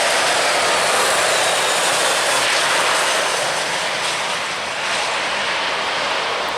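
Airliner's engines passing close, a loud rushing noise with a faint whine falling in pitch, easing off somewhat after about three seconds.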